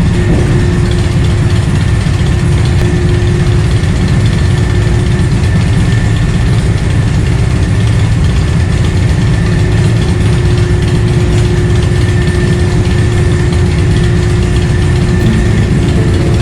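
A large engine running steadily, a heavy low rumble with a constant low hum and a faint high whine over it.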